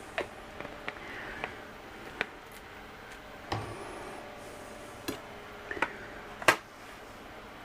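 Scattered light clicks and knocks from handling sauce bottles and utensils while basting, with one sharper click about six and a half seconds in, over a steady faint hum.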